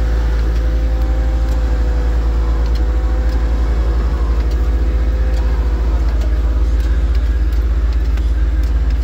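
Off-road 4x4 vehicle's engine running steadily: a deep rumble with a constant whine over it.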